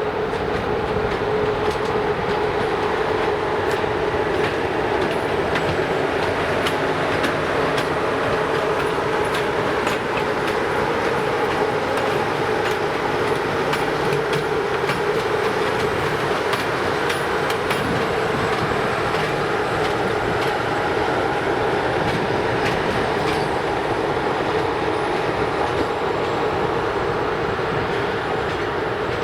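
A train rolling through a station: a steady, loud rumble of wheels on rail with a hum, and many sharp clicks as the wheels cross the rail joints.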